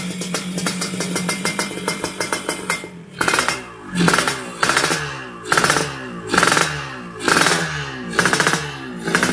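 Motorcycle engine running through a short aftermarket GRM exhaust muffler with a bulged side. It runs steadily at a raised idle for about three seconds, then is revved in short blips about once a second, each one dropping back in pitch.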